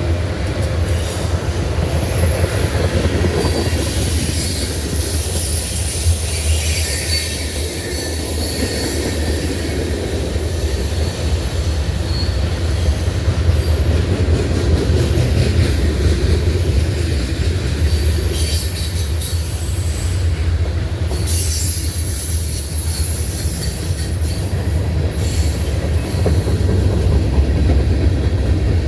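Norfolk Southern freight train cars rolling past with a steady low rumble and some clickety-clack, the steel wheels squealing high and thin on and off.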